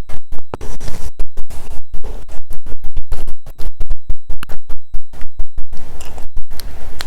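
Close-miked chewing and crunching, heavily distorted into a crackling clatter and cut by many sudden dropouts where the sound vanishes and returns, from a microphone that was not plugged in properly.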